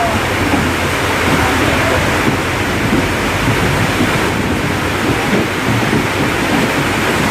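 Passenger train running, heard from on board: a steady, loud rumble of wheels on the track mixed with wind rushing past the microphone.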